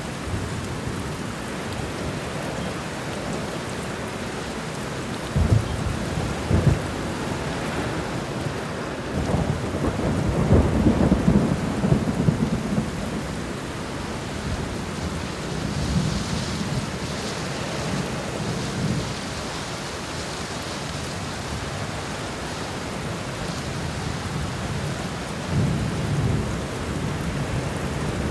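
Thunderstorm: steady rain with thunder rumbling several times, the longest and loudest roll about ten seconds in and smaller ones near the start and end.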